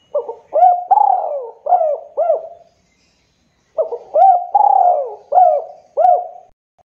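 Spotted dove (tekukur) cooing: two phrases of about five rounded coos each, with a pause of about a second between them.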